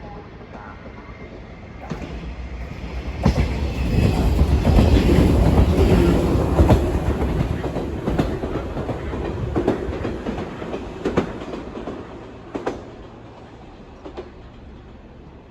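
A train passing: rumbling wheel and running noise builds, is loudest a few seconds in, then fades away. Several sharp clacks of wheels over rail joints come through as it goes.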